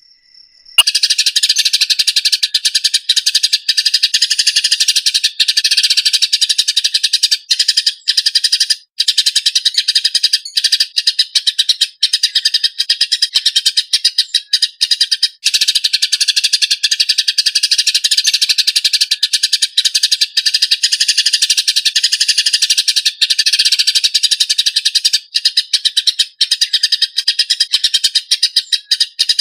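Eurasian tree sparrow fighting chatter: a fast, tight, harsh run of chirps with hardly a break, starting about a second in.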